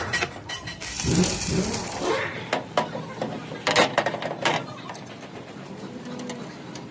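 About half a dozen sharp knocks or bangs between about two and five seconds in, after a brief voice with some hiss at the start.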